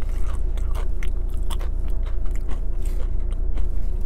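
A person chewing tortilla chips close to a clip-on microphone: irregular crisp crunches and wet mouth sounds, over a steady low hum.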